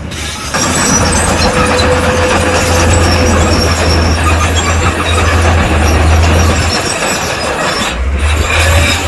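Crawler bulldozer working: a steady diesel drone under loud clanking and squealing of steel tracks. It gets louder about half a second in.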